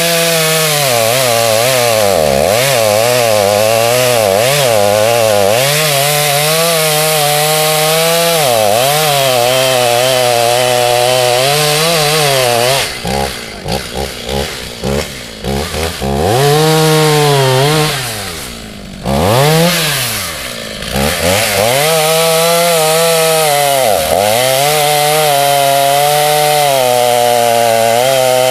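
Two-stroke chainsaw running at full throttle while cutting into a large pine trunk, its pitch sagging and recovering under load. About halfway through the throttle is let off and blipped several times in quick succession, then the saw drops briefly toward idle before going back to full speed.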